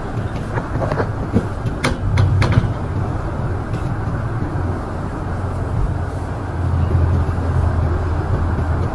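An engine runs steadily with a low hum, and a few sharp clicks or knocks come about two seconds in.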